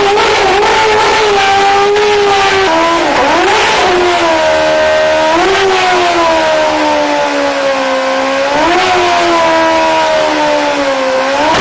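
Sportbike engine held at high revs during a stationary burnout, with the spinning rear tyre hissing. The revs sag slowly and are picked back up with throttle blips about every three seconds, near the end as well.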